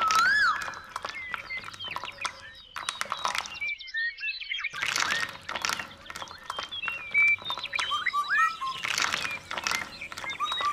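Small birds chirping in short rising and falling calls, mixed with a steady patter of clicks and knocks; everything drops out for just under a second about four seconds in.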